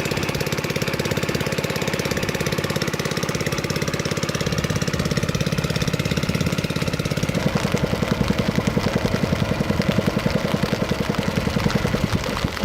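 A small boat's engine running steadily, then dropping about seven seconds in to a slower, throbbing beat.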